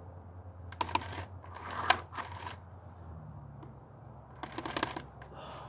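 Clicks and short plastic-and-metal rattles from handling an electric chainsaw while setting its chain tension, in a few separate groups, one sharp click about two seconds in and a quick run of clicks near the end.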